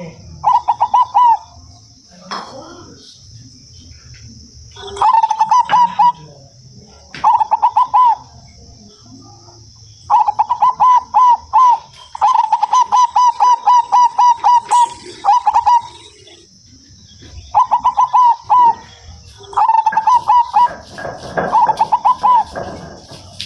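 Zebra doves (perkutut) cooing in repeated phrases of quick, staccato rolling notes, a phrase every second or two. A steady high-pitched hiss runs under the cooing throughout.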